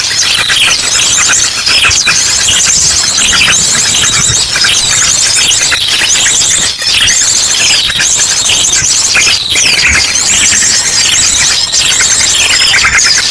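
Bird-lure recording: a busy chorus of small birds chattering, mixed with an ashy drongo's rapid rattling call series that repeats about once a second. The chirping is dense and loud throughout.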